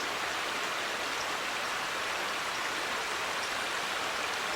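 Steady rush of a creek's flowing water, an even hiss that holds level.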